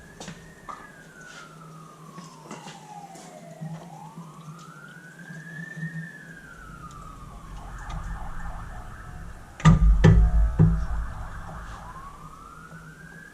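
Emergency-vehicle siren in a slow wail, rising and falling about every five to six seconds. A few loud knocks come about ten seconds in.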